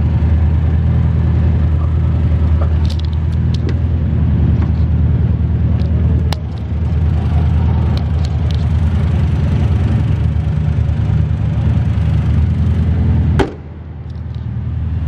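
Tata Indica Vista 1.4's engine idling steadily under the open bonnet, with a few light clicks. About 13 seconds in, a sharp clunk as the bonnet is shut; after it the idle carries on, muffled.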